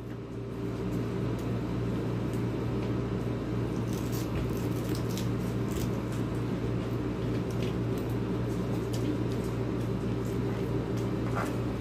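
Mouth sounds of a person eating rice and fried tilapia by hand: faint scattered wet clicks of chewing, over a steady low hum.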